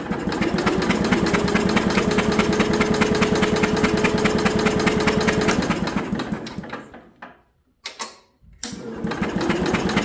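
Electric starter cranking the garden tractor's one-cylinder engine in a steady, fast rhythm with a whine, without it starting. It winds down and stops about two-thirds of the way in, then cranks again near the end. The engine is not firing: there is still no spark from the ignition coil.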